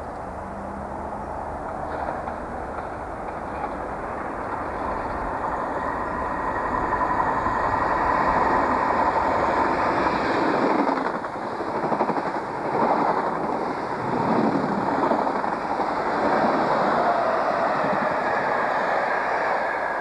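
Inter-City passenger train running through a station: the rush of wheels on rail grows louder as it approaches, then a loud, pulsing clatter of coach wheels as the carriages pass close by.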